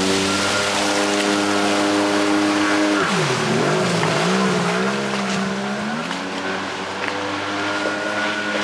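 Arctic Cat Tigershark 1000 jet ski's two-stroke engine running at high, steady revs. About three seconds in the revs fall and hunt up and down unevenly for a few seconds, then settle high again, and they drop once more near the end. The owner cannot say what fault causes it.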